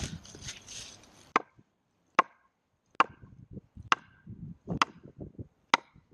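Sledgehammer striking a felled tree trunk six times, sharp wooden blows about one a second, driving the log into its resting place.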